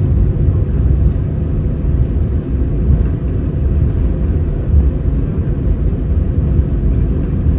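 Steady low rumble inside the cabin of an Airbus A319 with CFM56 engines as it taxis after landing.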